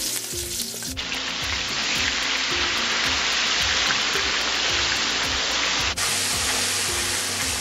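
Wet curry paste sizzling and spattering in hot oil in a wok as it is stirred with a spatula: the masala being bunjaed, fried down in the oil. The sizzle jumps louder about a second in.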